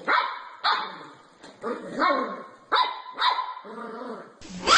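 A dog barking repeatedly, about eight barks, roughly two a second. A louder bark comes near the end.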